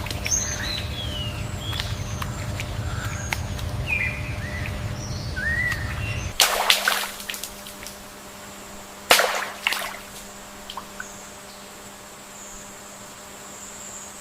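Wetland nature ambience: small birds chirping in short gliding calls over a low rumble, which stops about six seconds in. Two sharp cracks follow, a few seconds apart, then a thin steady high tone near the end.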